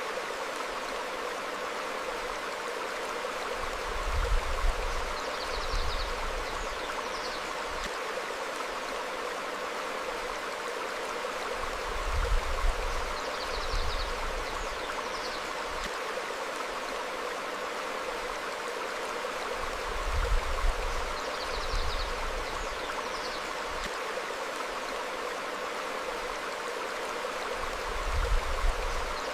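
Stream flowing steadily over rocks, with a few faint, short bird chirps. A low rumble swells up about every eight seconds, four times over.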